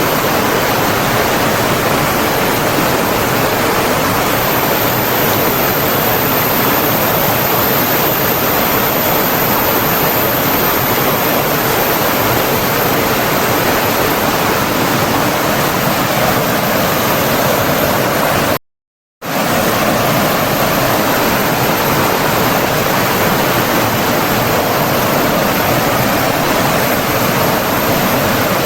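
Rushing water, a steady, dense noise with no change in strength. It cuts out to silence for about half a second some two-thirds of the way through, then resumes as before.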